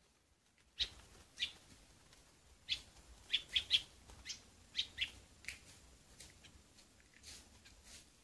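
Bird giving about a dozen short, sharp chirps at irregular intervals, starting about a second in.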